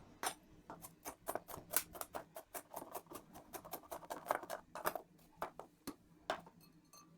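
Large kitchen knife chopping fresh root ginger on a chopping board: quick, irregular knife strikes, about four or five a second, stopping a little after six seconds in.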